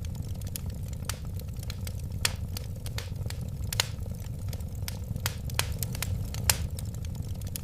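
Wood fire burning in a fireplace: a steady low rumble of flames with irregular sharp crackles and a few louder pops.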